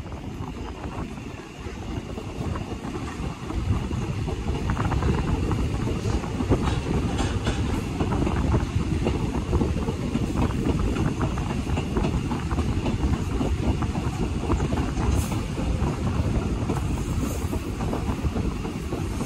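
Passenger train running along the track, heard from an open carriage window: a steady rumble of wheels on rails with scattered faint clicks, growing louder about three seconds in.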